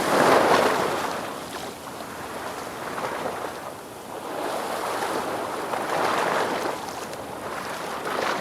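Ocean waves breaking and washing up the shore, one surge loudest right at the start and easing off, and another building about six seconds in.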